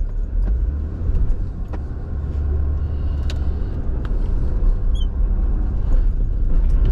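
Diesel truck driving over rough ground, heard from the cab: a steady low rumble with scattered knocks and rattles.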